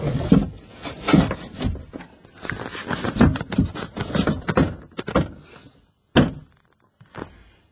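Removable floor panel being lifted out of an aluminium boat: a run of irregular knocks and scrapes, then one sharp knock about six seconds in.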